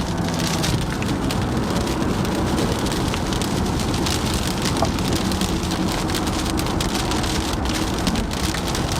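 Rain hitting a car's roof and windshield as many small, dense hits over steady road noise, heard from inside the moving car.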